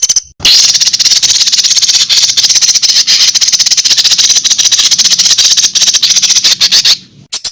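A songbird's fast, dry rattling trill: a dense run of ticks, more than ten a second, held for about six and a half seconds and then cut off suddenly.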